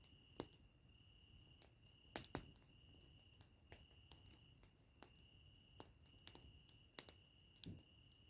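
Campfire wood crackling softly, with irregular sharp pops, a few of them louder, and a faint steady high tone in the background.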